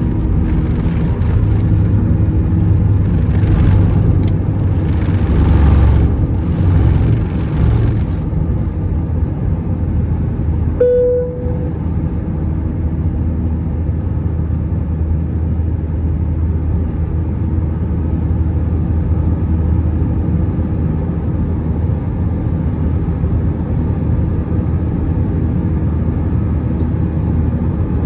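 Airbus A320-211 cabin noise heard from a window seat: the CFM56 engines and airflow give a steady low drone with fixed hum tones. For the first eight or so seconds a louder rushing noise sits on top, then stops; about eleven seconds in comes a single short ding.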